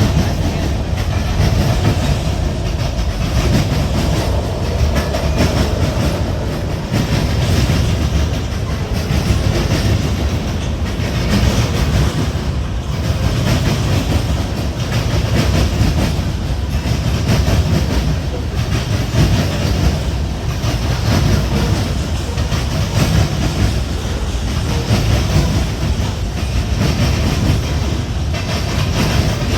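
Freight train cars rolling past, a steady rumble with the repeated clickety-clack of wheels over the rail joints.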